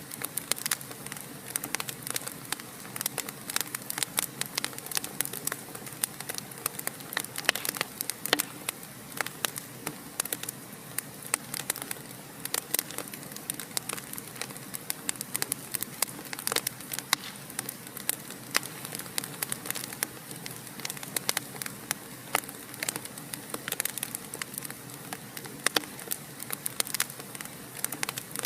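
Wood fire in a fireplace crackling steadily, with many sharp irregular pops and snaps over a soft hiss of burning.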